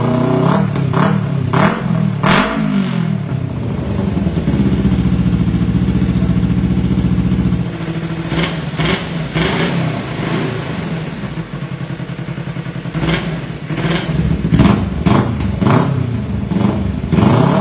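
Kawasaki Ninja motorcycle engine running through a remote-switchable two-mode aftermarket exhaust. It revs up and down, settles to a steady idle, and changes tone and drops in level about eight seconds in. Short sharp throttle blips follow through the rest.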